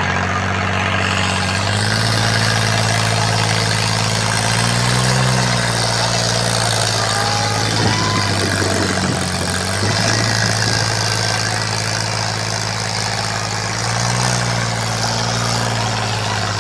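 Eicher 557 tractor's diesel engine running steadily at low revs, rising briefly in pitch about five seconds in and again near the end, with a rougher, noisier stretch around the middle.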